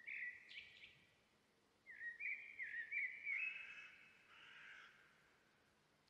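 Birds calling: a short burst of chirps at the start, then a longer run of quick, stepped, rising chirps from about two seconds in until near the end.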